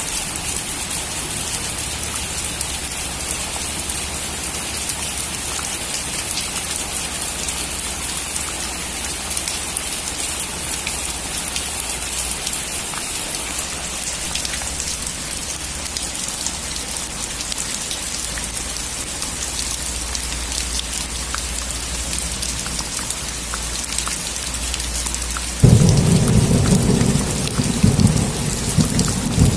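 Steady rain falling, an even hiss with fine drop ticks. About 26 seconds in, a sudden loud thunderclap breaks in and rumbles on.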